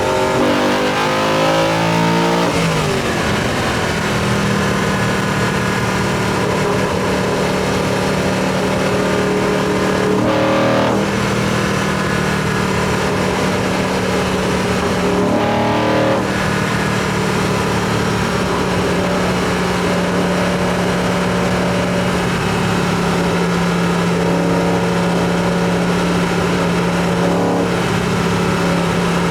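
BMW E90 M3's 4.0-litre V8 with an Eventuri carbon-fibre intake and plenum, under way. Revs climb for the first couple of seconds, then fall back at a shift and settle to a steady drone, with brief changes in pitch about ten and fifteen seconds in.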